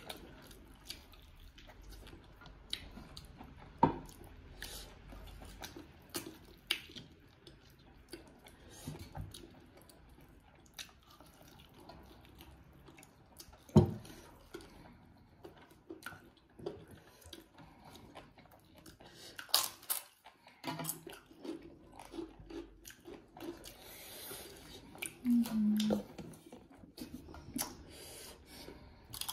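Close-up eating sounds: chewing and mouth smacks as people eat rice and curry by hand, with many small scattered clicks and a few sharper knocks, the loudest about 4 and 14 seconds in.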